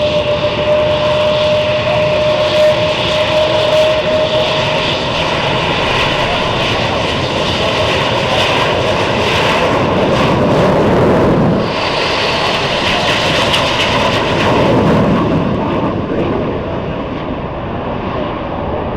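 Hongdu L-15E twin-turbofan jet trainers' engines running loud and steady, with a steady whine that dies away about five seconds in.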